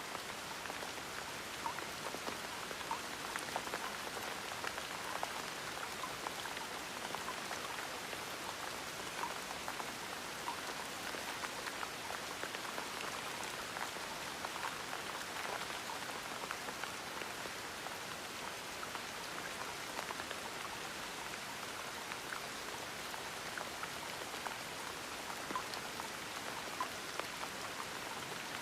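Gentle rain falling steadily, with many separate drops heard as small ticks over an even hiss.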